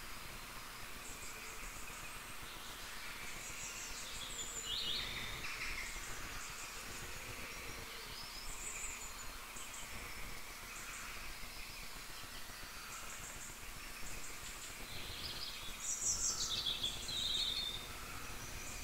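Faint birds chirping in the background: many short high chirps, with a couple of falling calls about four seconds in and again near the end, over a steady low hiss.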